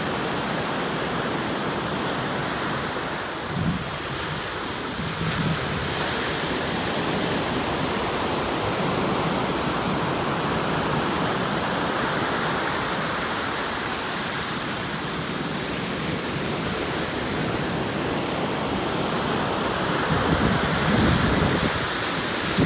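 Atlantic Ocean surf: a steady wash of breaking waves with a louder surge about three and a half seconds in and another near the end, with some wind buffeting the microphone.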